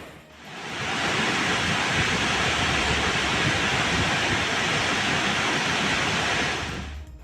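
Steady rush of water, fading in about a second in and fading out near the end.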